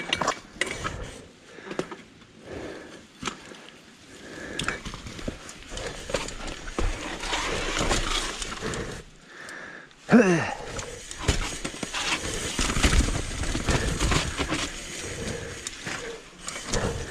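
Mountain bike rolling over a rough, rocky trail, with tyres, frame and drivetrain giving off an irregular rattle of knocks and clicks. A short pitched glide is heard about ten seconds in.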